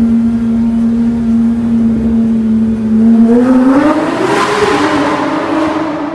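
Porsche 911 GT3 RS's naturally aspirated 4.0-litre flat-six through an Innotech exhaust, holding steady revs, then revving up sharply about three seconds in, peaking with a harder rasp and settling a little lower near the end.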